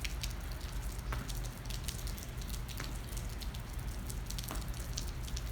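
Rain pattering and dripping, with many small scattered drop ticks over a steady low rumble.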